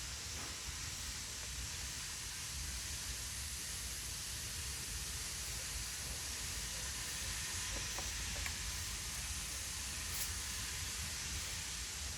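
Cicadas calling in a steady, high, hissing drone that neither rises nor falls, with a couple of faint ticks near the end.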